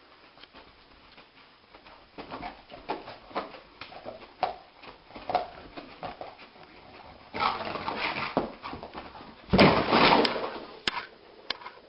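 A dog making a series of short whining, grumbling sounds, about two a second, swelling into longer, louder sounds near the end.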